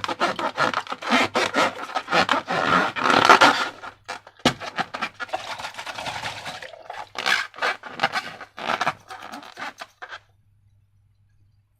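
Sticky slime being squished and worked by hand: a dense run of wet crackles, clicks and scrapes, loudest in the first few seconds, stopping shortly before the end.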